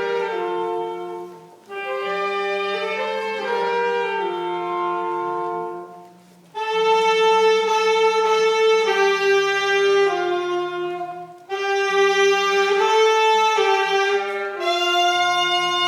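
Wind instruments playing a slow hymn melody in held notes, in phrases separated by short breaths, ending on a long held note.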